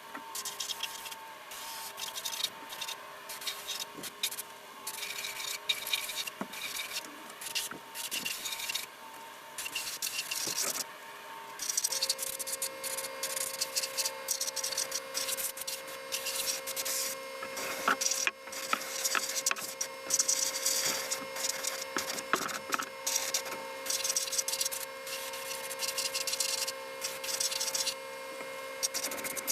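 Irregular hand scrubbing and scraping strokes, rough and uneven, with a steady hum added about twelve seconds in.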